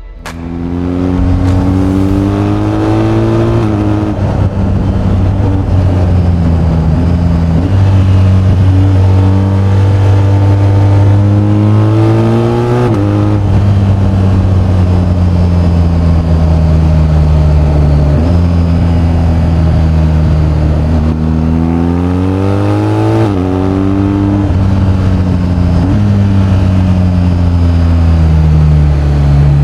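BMW R1250GS's boxer twin engine under way, accelerating through the gears: the engine note climbs and drops sharply at an upshift three times, holding steadier or easing off in between.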